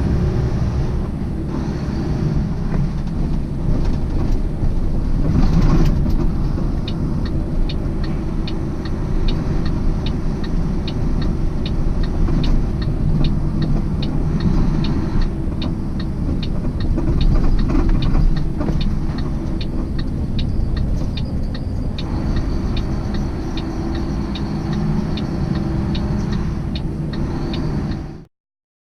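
Semi-truck cab noise while driving: a steady low engine and road rumble, with a regular light ticking through most of it. The sound cuts off abruptly near the end.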